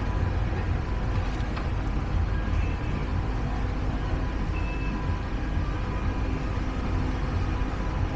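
Steady low engine rumble with a faint hum, a couple of light clicks about a second and a half in.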